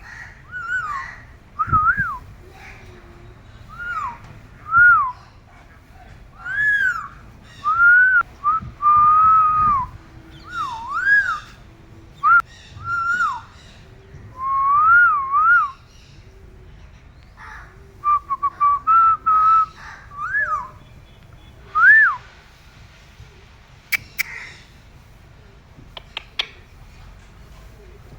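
Parrot whistling in many short phrases that swoop up and down in pitch, with pauses between them. A couple of sharp clicks near the end.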